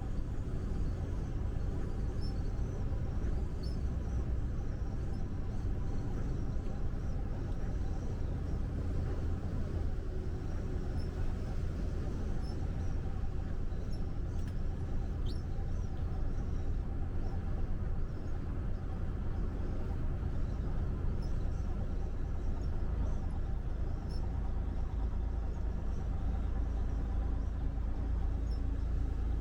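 Steady low engine and road rumble of a truck driving on the highway, unchanging throughout, with a few faint light ticks.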